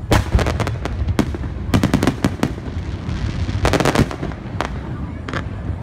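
Aerial firework shells bursting: volleys of sharp bangs near the start, about two seconds in and about four seconds in, then two single bangs near the end, over a steady low rumble.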